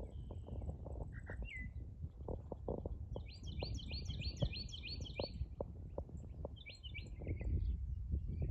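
A bird calling in a quick run of about eight high notes from about three seconds in, then a shorter run near seven seconds, over a low rumble and irregular soft knocks.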